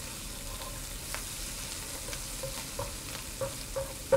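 Corn tortilla pieces and ham frying and sizzling in a skillet as a plastic spatula stirs them. Scattered light taps of the spatula on the pan run through it, with a sharper knock near the end.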